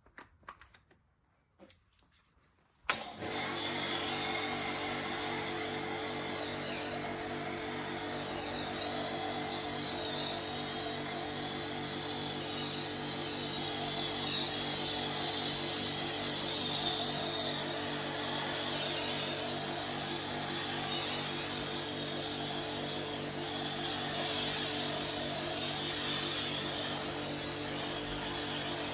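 A motor starts about three seconds in with a short surge, then runs steadily as an even, low hum under a strong hiss. A few faint clicks come before it.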